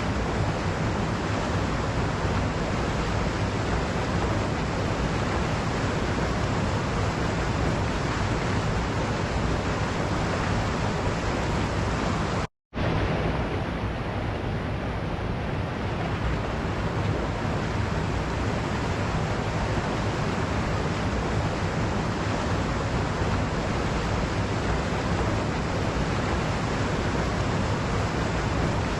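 Waterfall rushing steadily, a dense even roar of falling water. It cuts out to silence for a split second a little under halfway through, then resumes.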